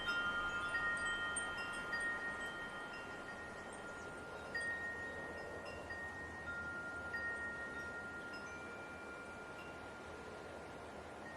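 Wind chimes ringing, their tones struck at irregular moments by a light wind, each note hanging on and slowly dying away over a soft wind hiss. The chiming thins out and grows quieter toward the end.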